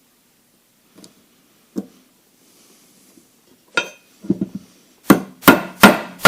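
Hammer striking steel: a few light, scattered knocks, then about four hard, ringing blows in quick succession near the end, driving a tight-fitting part onto a splined shaft that will not seat.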